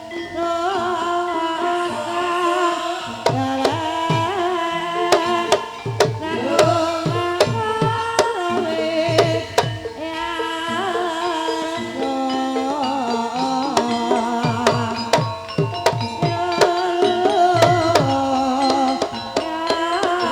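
Banyumasan gamelan music accompanying an ebeg dance: kendang hand drums play strokes that bend downward in pitch, under a wavering sung or played melody and a bright metallic ring on top.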